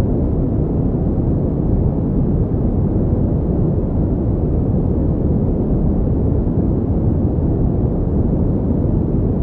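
Steady synthetic pink noise, an even, unchanging rush weighted toward the low end, with little above a few kilohertz.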